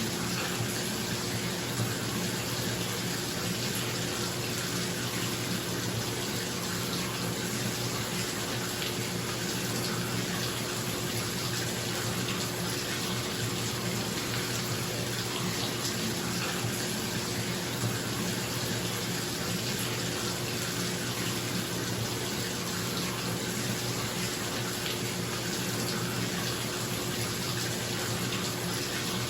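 Bathtub tap running steadily into a filling tub, a constant splashing rush, with a bathroom exhaust fan humming steadily underneath.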